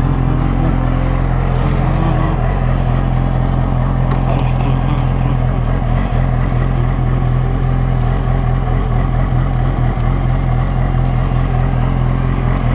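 Yamaha R6's inline-four engine idling steadily through an SC-Project slip-on exhaust.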